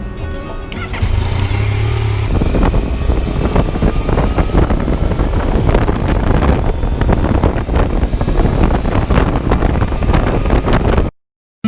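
Yamaha Tracer (MT-09 Tracer) motorcycle's three-cylinder engine running under way, mixed with wind rushing over the microphone. It cuts off suddenly near the end.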